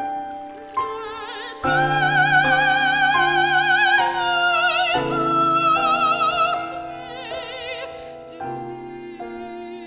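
Soprano singing with a wide vibrato over piano accompaniment. The voice swells on a sustained high phrase from about 2 to 6 seconds in, then falls back and softens over the piano.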